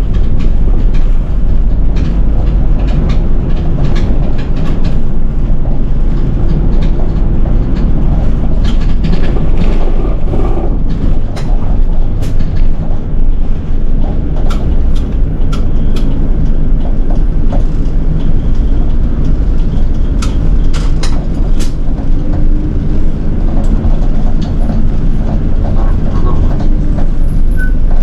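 Diesel city bus running along the road, heard from inside the cabin: a steady low engine rumble and road noise, with scattered clicks and rattles.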